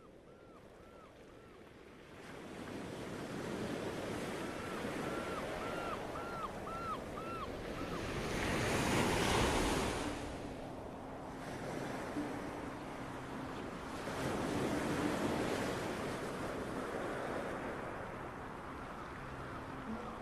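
Ocean waves washing in, swelling to a peak about nine seconds in and again around fifteen seconds, with wind on the microphone. A run of short repeated chirps sounds at the start and again about five seconds in, and a faint steady hum comes in at about ten seconds.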